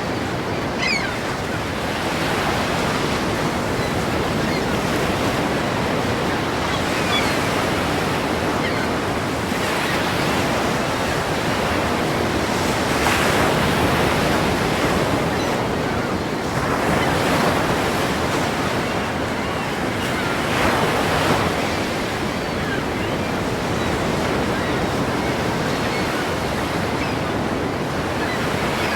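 Ocean surf: waves breaking in a continuous loud rush that swells and falls every few seconds.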